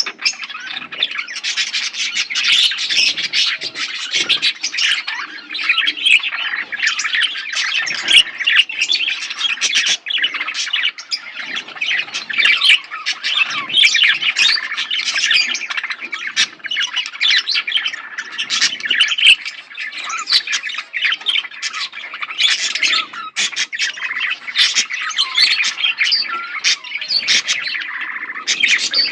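A flock of budgerigars chirping and chattering together, many short overlapping calls and squawks in a continuous busy din.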